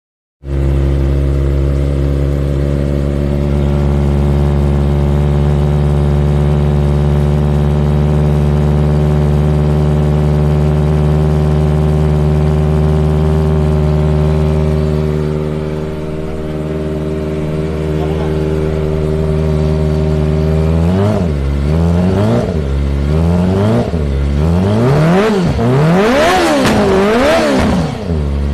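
Kawasaki ZX-25R's 250 cc inline-four engine idling steadily, then blipped through a run of quick throttle revs that rise and fall, climbing higher near the end.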